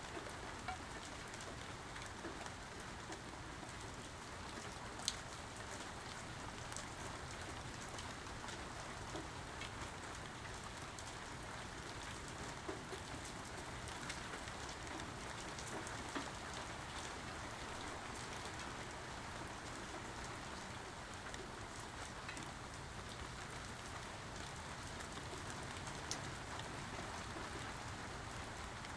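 Steady rain falling, with scattered single drops ticking sharply on a surface, the loudest about five seconds in.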